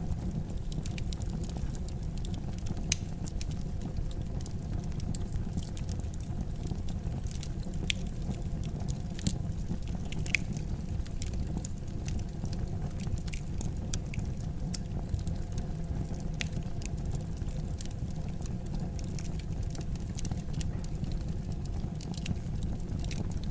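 Wood fire burning in a fireplace: a steady low rumble with scattered irregular crackles and pops, a few of them louder snaps.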